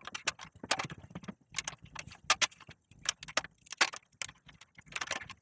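Metal hand tools clinking and knocking against the Cannondale tandem's eccentric bottom bracket while its wedge bolt is worked loose: an irregular run of sharp metallic clicks and taps.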